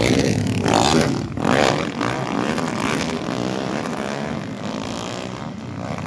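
Motocross dirt bike engines revving as the bikes race past, with the pitch rising and falling. The sound is loudest in the first two seconds, then fades away.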